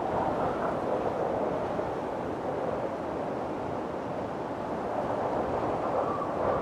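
Strong wind blowing steadily in a windstorm, a continuous rushing that swells and eases slowly, with a faint whistling note near the end.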